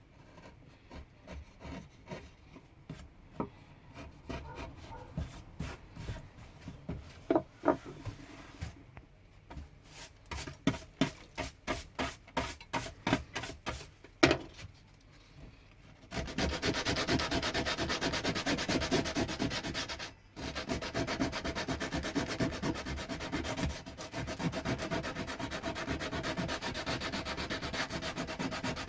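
Hand tool work on pine wood. For the first half it is irregular single scraping strokes and knocks, with a quick run of short strokes. From about halfway it turns into steady back-and-forth abrasive rubbing on the wood, sanding, which breaks off briefly twice.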